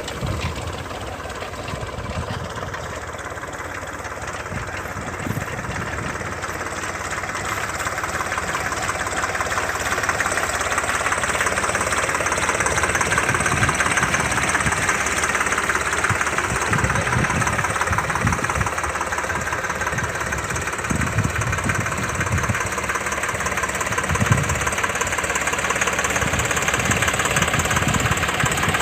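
Tractor engine running steadily, growing gradually louder over the first half.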